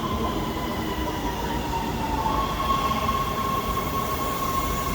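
Los Angeles Metro subway train in the station: a steady high whine over a low rumble of the cars. The whine dips slightly in pitch about a second and a half in, then settles again.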